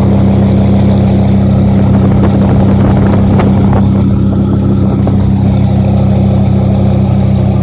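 2001 Dodge Ram's 8.0-litre V10 idling loud and steady through a 3-inch straight-piped exhaust with an Aero Turbine straight-through muffler, still warming up after a cold start.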